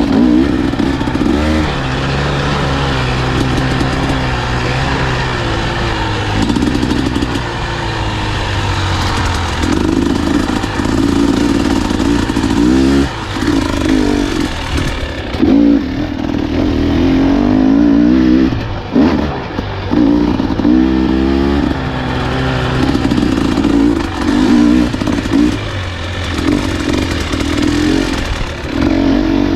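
Husqvarna enduro dirt bike engine on a trail ride, the revs rising and falling over and over as the throttle is opened and rolled off, with a few brief dips where the throttle is shut.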